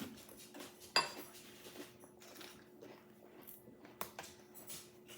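Cutlery clinking and scraping against a dish during a meal: a few sharp clinks, the loudest about a second in and another near four seconds, with small scrapes between, over a faint steady hum.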